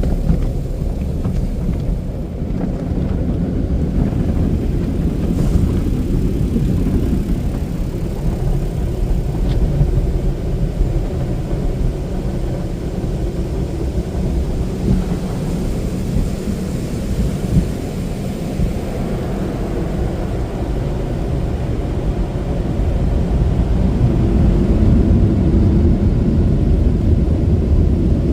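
Tunnel car-wash equipment heard from inside the car: water spraying and washing gear working over the body in a continuous low rumble, growing louder near the end.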